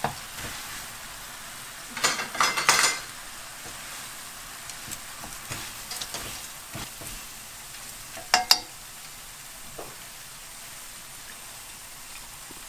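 Dried baby anchovies stir-fried in a frying pan in a boiling soy-and-syrup glaze: a steady sizzle under the scrape and rustle of a silicone spatula and chopsticks stirring. A run of loud clatter comes about two seconds in, and two sharp knocks of utensils against the pan come after about eight seconds.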